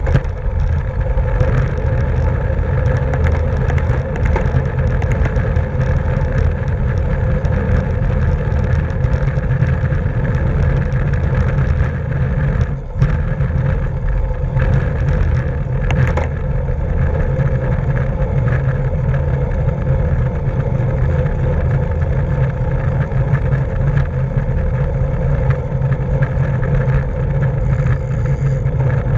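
Wind rushing over the microphone of a camera riding with a bicycle at race speed: a steady heavy rumble with road noise, broken by a couple of brief clicks in the middle.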